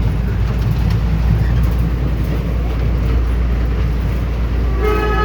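Steady low rumble of a ride train in motion. Near the end, the train's horn starts to sound, one held pitched note.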